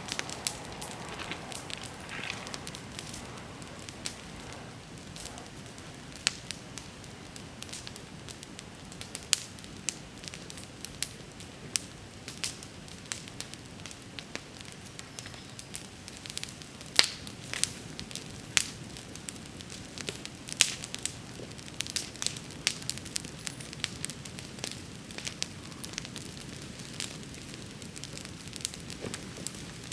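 Wood bonfire burning with a steady low rush of flame and frequent sharp crackles and pops. A few louder pops come past the middle.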